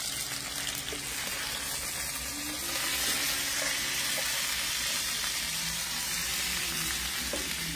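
Boneless chicken thighs sizzling steadily in a skillet over a wood fire as they are turned with metal tongs; the sizzle gets a little louder about three seconds in.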